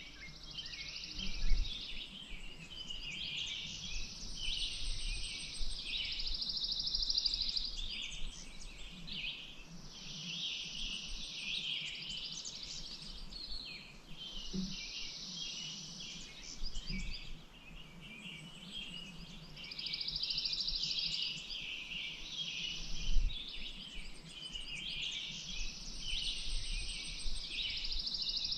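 Several songbirds singing at once in a dense chorus, one of them a fast trill that comes round every few seconds. A couple of short low thumps stand out, about a second and a half in and again near the end.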